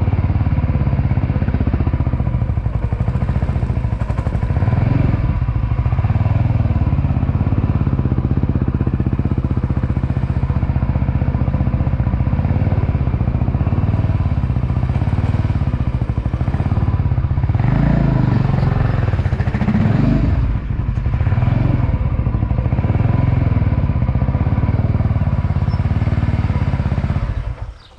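Motorcycle engine running continuously, swelling briefly twice about two-thirds of the way through as if revved, then cutting off suddenly at the end.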